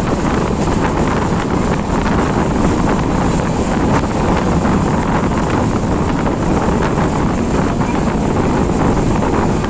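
Loud, steady rush of wind buffeting the microphone over the low rumble of a moving train.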